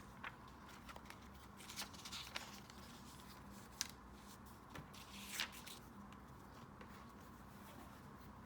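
Paper and packaging being handled: light rustles and crinkles with a few short crisp clicks and taps, the sharpest about four and five and a half seconds in, over a faint steady hum.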